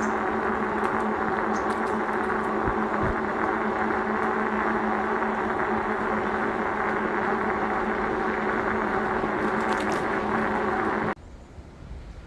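Steady hum of a motor running at constant speed, holding several fixed tones, which cuts off abruptly about 11 seconds in.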